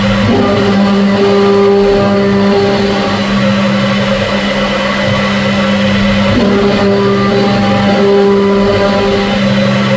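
CNC machine running: a steady motor hum, with higher motor tones that come in for a few seconds at a time, twice, as the machine moves.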